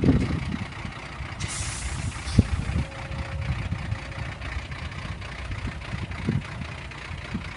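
Large truck's engine running low and steady, with a hiss of released air brakes lasting about a second, about a second and a half in.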